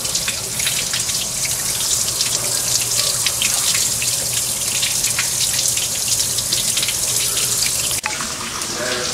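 Water from a garden hose flushing through a car's heater core and splashing out of the open heater hose: a steady gush and splatter as rust and crud are washed out. The sound changes abruptly about eight seconds in.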